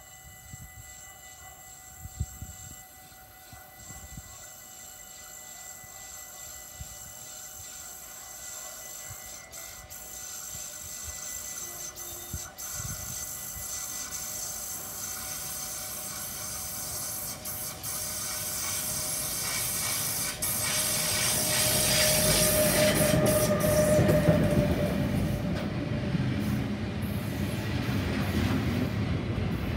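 Electric freight train approaching and passing, the rumble of the locomotive and intermodal wagons loaded with truck trailers growing steadily louder until the wagons roll by close, about three-quarters of the way through. A short wheel squeal sounds as the wagons pass.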